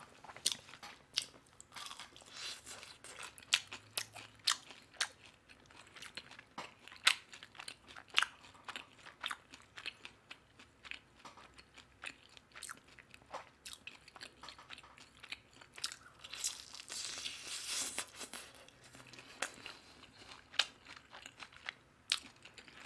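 Close-miked chewing and biting of sauce-coated Korean yangnyeom fried chicken: irregular crisp crunches and wet mouth clicks, with a longer hissy stretch about three-quarters of the way through.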